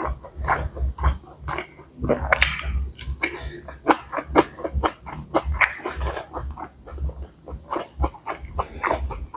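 Close-up eating of pad see ew stir-fried noodles: irregular wet chewing, smacking and mouth clicks.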